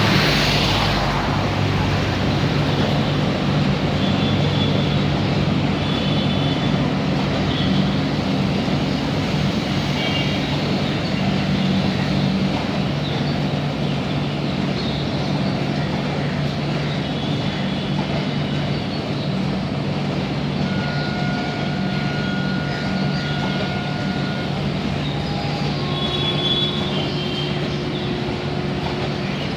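Indian Railways train running, a steady low rumble with a few brief high tones now and then.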